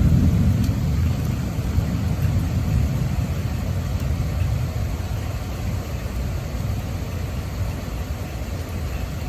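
Thunder rumbling low, loudest at first and slowly fading away.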